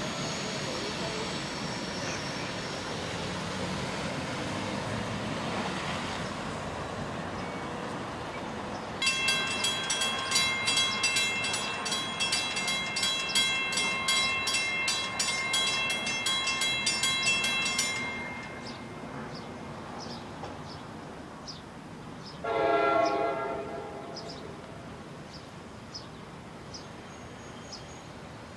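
Train running through the station with wheel and rail noise, then a bell ringing about twice a second for some nine seconds, and a single short horn blast near the end.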